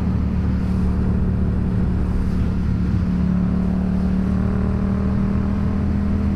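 Yamaha FZ-07's parallel-twin engine running at steady, even revs, heard from the rider's helmet, with road and wind noise.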